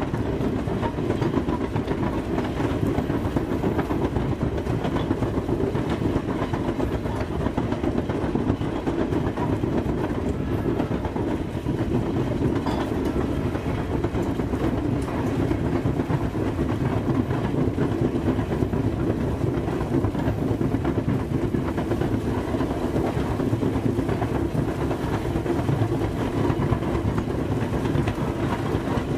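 Steady rumble and rail noise of a train rolling along the track, without a break.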